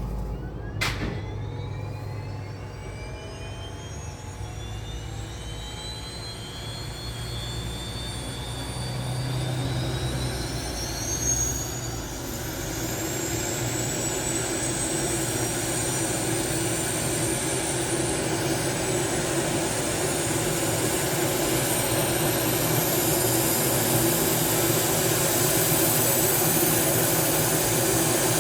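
Pilatus PC-12's PT6A turboprop engine starting up. After a sharp click about a second in, the turbine's whine rises steadily in pitch as it spools up, growing louder toward the end.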